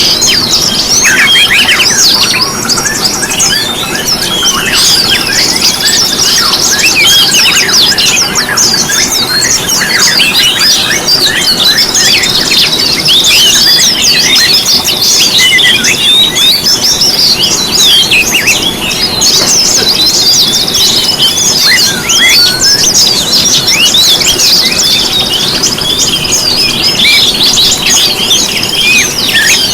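Dense, overlapping chorus of small songbirds: rapid high chirps, quick whistled glides and long steady trills, loud and continuous. This is a pancingan lure mix of the kind built from white-eyes, magpie-robins, sunbirds, canaries, shamas and green leafbirds, played to set caged birds singing. A steady low hiss runs underneath.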